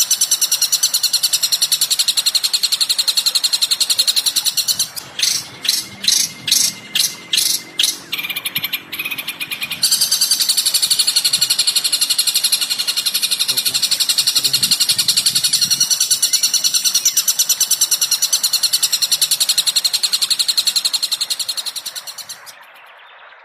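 Recorded songbird chattering played as masteran training song: a dense, rapid run of high-pitched calls, broken about five seconds in by separate sharp chirps, two or three a second, then resuming until it fades out near the end.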